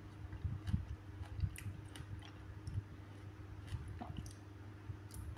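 Close-up chewing of soft, juicy papaya: wet, squishy mouth sounds with small clicks, busiest at first and thinning out after a few seconds.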